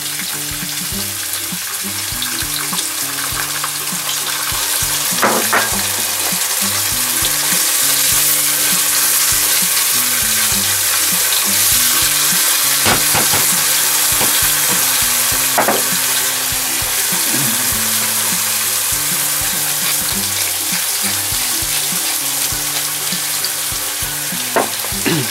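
Chopped broccoli frying with garlic in hot sesame oil in a small stainless-steel saucepan, a steady sizzle, while a spatula stirs it and clicks against the pan a few times.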